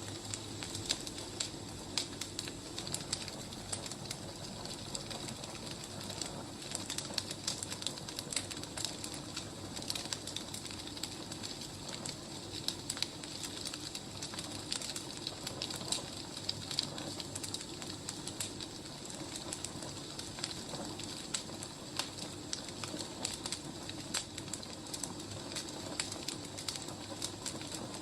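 Firewood burning, crackling with many small irregular snaps over a steady hiss.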